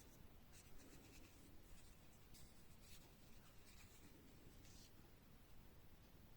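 Near silence with faint, intermittent scratchy rubbing.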